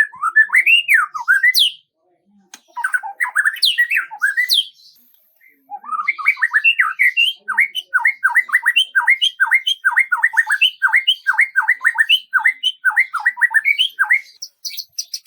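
A songbird singing: short twittering phrases broken by brief pauses, then a long run of repeated quick down-slurred whistled notes, about three a second.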